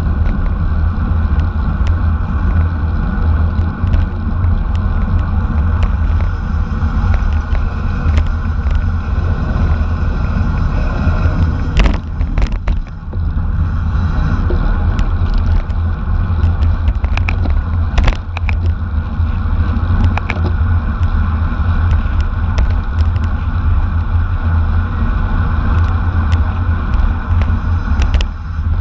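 Wind rushing and buffeting over a camera microphone on a bicycle ridden at race speed: a loud, steady low rumble, with scattered short clicks.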